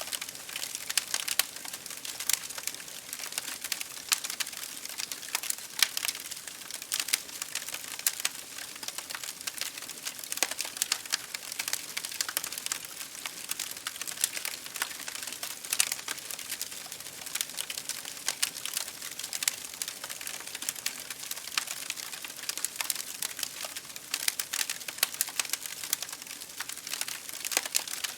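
Campfire burning, the wood crackling with a dense run of irregular sharp pops.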